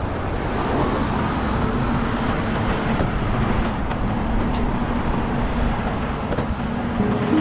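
Semi truck driving, heard from inside the cab: steady low engine drone mixed with road noise.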